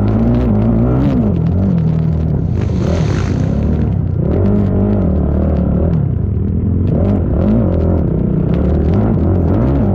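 Racing ATV engine running hard, its pitch rising and falling again and again as the throttle opens and closes. A short noisy burst about three seconds in.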